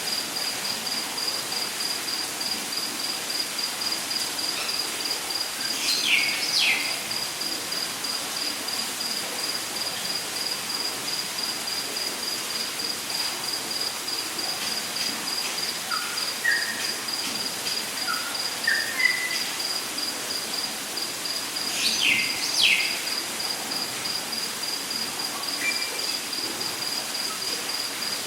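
Rainforest ambience: an insect trills steadily at one high pitch in rapid pulses over a constant even hiss. Birds call over it: a pair of quick falling whistles about six seconds in and again about twenty-two seconds in, and a short run of notes stepping upward in between.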